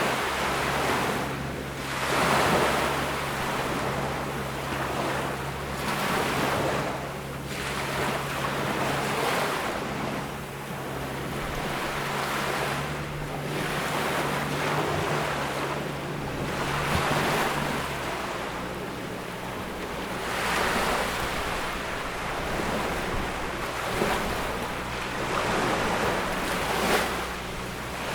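Waves breaking and washing up a tropical beach, the surf swelling and fading every few seconds. A faint low steady hum sits underneath and changes pitch about two-thirds of the way through.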